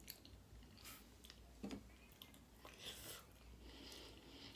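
Faint chewing of a breaded jalapeño popper: soft mouth clicks and small wet sounds, barely above room tone.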